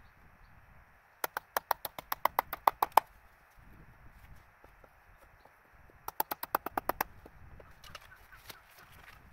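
Hammer tapping on a chisel: two quick runs of sharp knocks, about seven a second, the first run of about a dozen strikes growing louder toward its end, the second shorter, a few seconds later.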